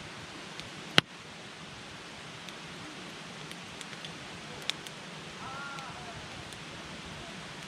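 Wood campfire burning with a steady hiss and sharp crackling pops, the loudest about a second in and another a little past halfway. A faint short whistle sounds about three quarters of the way through.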